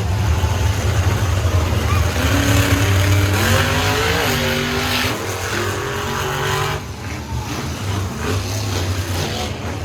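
Monster truck engine running hard with a deep rumble, its pitch climbing in steps as it revs, then easing off about seven seconds in.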